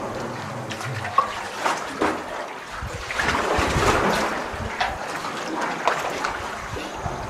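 Water splashing and lapping around a sea canoe, with irregular splashes as paddles dip and a louder wash of water about three to four seconds in.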